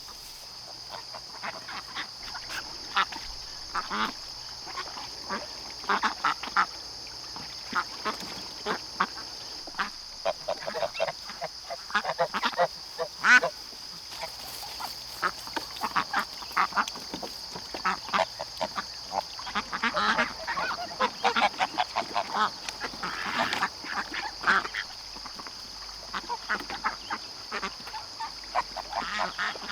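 A flock of ducks quacking, many short calls in quick runs, busiest from about a third of the way in, with a steady high hiss underneath.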